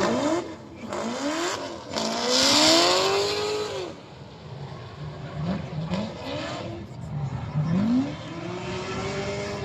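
Car engines revving hard in a series of rising runs. The loudest is about two seconds in: a long climb and fall in pitch with a hissing rush.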